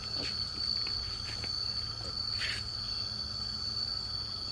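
Crickets trilling one continuous high-pitched note, with a brief rustle about two and a half seconds in.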